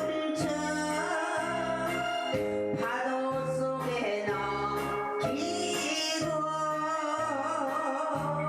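A female vocalist singing a Korean trot ballad with vibrato, over instrumental accompaniment with a steady, rhythmic bass line.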